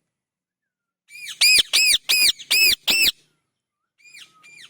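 Parrot calling: a quick run of five or six loud calls about a second in, each rising then falling in pitch, followed by two fainter calls near the end.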